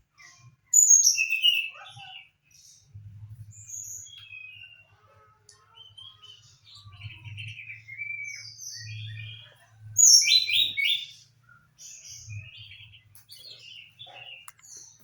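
Brown-chested jungle flycatcher chirping and calling in short, scattered notes, with two louder bursts of calls, one about a second in and one about ten seconds in. A low hum comes and goes underneath.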